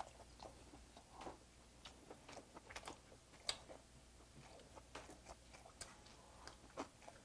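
Faint chewing of a man eating braised semi-dried pollock and rice, with scattered soft, irregular clicks and smacks.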